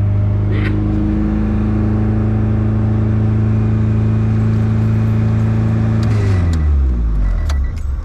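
Car engine held at raised revs with a steady, even pitch, then dropping back toward idle about six seconds in. The owner suspects a leaking head gasket.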